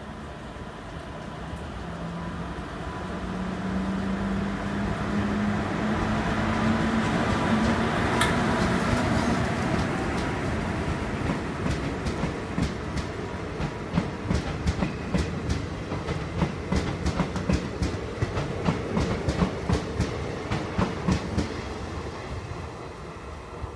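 Passenger train passing at speed: the locomotive's steady hum builds and rises slightly in pitch as it approaches and goes by, then the coaches' wheels clatter over the rail joints, about three clicks a second, fading as the train moves away.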